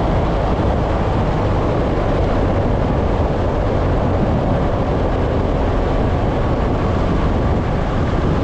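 Steady road and engine noise of a vehicle driving along a highway, an even rush with a strong low rumble and no breaks.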